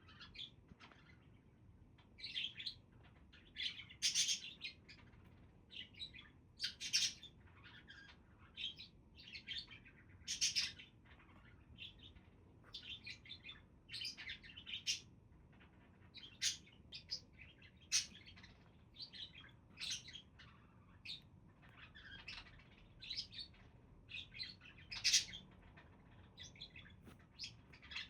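Pet budgerigars chirping and warbling: many short, irregular high chirps, some louder ones among them.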